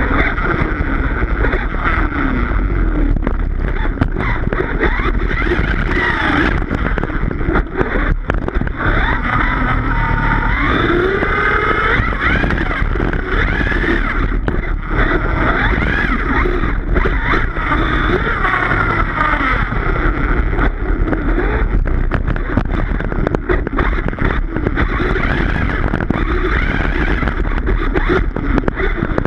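Redcat Rampage XBE 1/5-scale electric RC car running hard, its motor whine rising and falling continuously as the throttle changes, over steady tire and drive noise.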